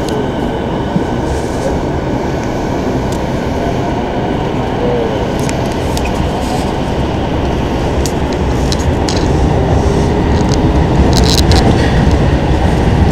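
Commuter train heard from inside the carriage while moving: a steady rumble of wheels on rails with running noise, growing louder over the last few seconds, with a few sharp clicks near the end.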